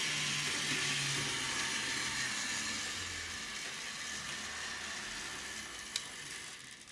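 HO-scale model locomotive running on its track, its small electric motor and wheels giving a steady whir that slowly gets quieter. One sharp click about six seconds in, then the sound drops away near the end.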